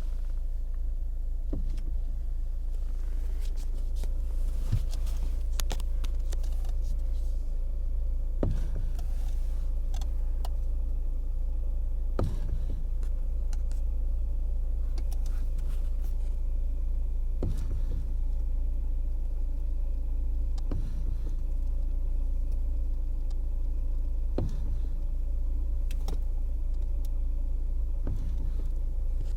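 Knocking in a Lada Kalina Cross's steering as the wheel is turned: a short knock every few seconds over a steady low engine hum. It is the fault the owner is showing, extraneous noise in the steering.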